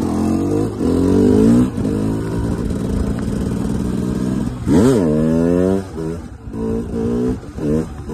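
KTM two-stroke dirt bike engine running hard at high revs, with a sharp loud swing in revs about five seconds in, then a string of short throttle blips as the revs rise and fall.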